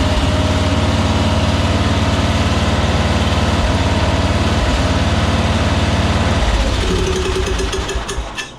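Briggs & Stratton 11 hp lawn mower engine running steadily on its freshly cleaned carburetor. About six and a half seconds in it is shut off, its firing slowing until it stops near the end.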